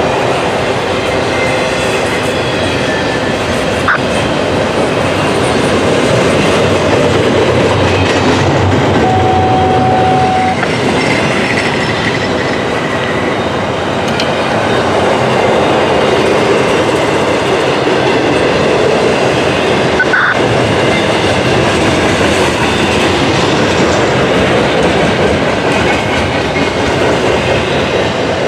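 Norfolk Southern intermodal freight train rolling past close by: steady, loud wheel-on-rail noise with clickety-clack from the cars, and a brief steady whine about nine seconds in.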